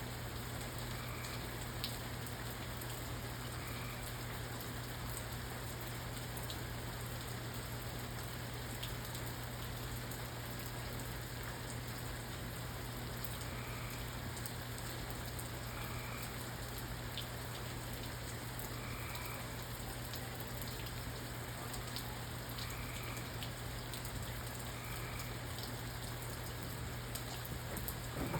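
Steady rain falling on a surface, with scattered individual drops ticking through it, over a low steady hum.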